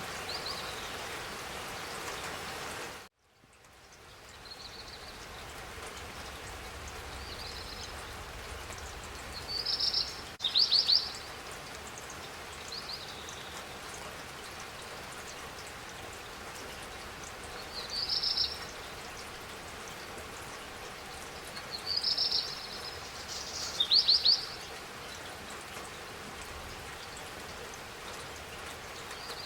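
Steady spring rain with birds chirping now and then, including two louder trilling calls about ten and twenty-four seconds in. The sound drops out suddenly about three seconds in and fades back up over a few seconds.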